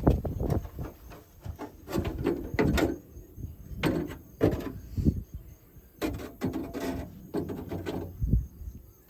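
Irregular knocks, clicks and clunks from parts and hand tools being handled while bolting and screwing parts onto an old car.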